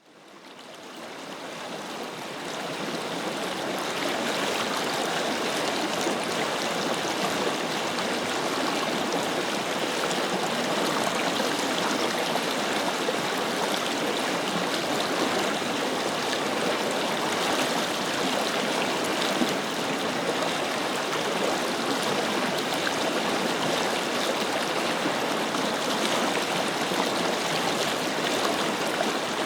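Forest river flowing: a steady rush of water that fades in over the first few seconds.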